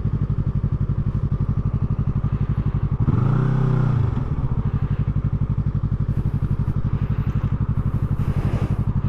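Motorcycle engine idling with an even, rapid chug. About three seconds in, a brief rise and fall in pitch passes over it.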